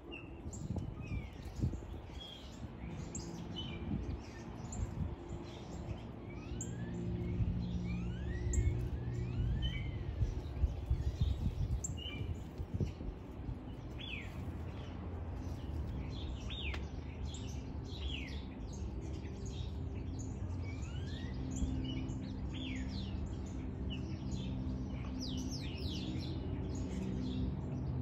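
Several birds chirping: many short high chirps throughout, some sliding down and some up in pitch. Underneath is a steady low hum that swells from about seven to twelve seconds in.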